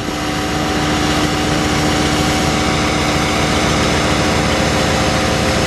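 An engine running steadily, with an even low beat and a constant hum.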